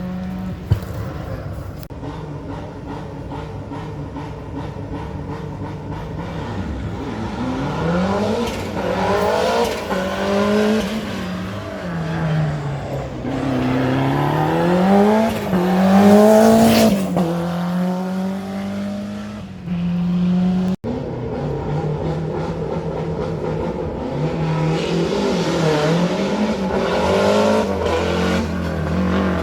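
Rally car engines on a closed special stage, revving hard with the pitch climbing and dropping through repeated gear changes, loudest as a car passes about two-thirds of the way through. It cuts off abruptly just after that, and another car then accelerates.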